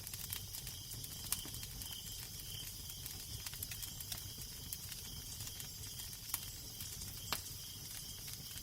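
Wood fire crackling, with frequent small ticks and a few sharper pops, over a steady low rumble of wind.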